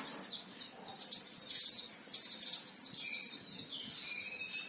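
A mantenan Himalaya white-eye singing in a high, fast, twittering run of chirps for about two seconds, then a few shorter separate phrases.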